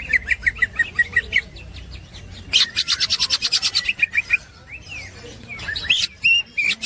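Cucak ijo (green leafbird) singing its rapid ngekek chatter: two fast runs of repeated notes, about seven a second, then a few short sliding whistles near the end.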